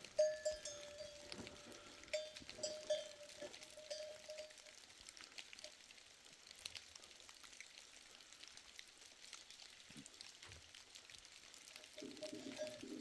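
Faint clinking of livestock bells over the first few seconds, then a short bleat from the flock near the end.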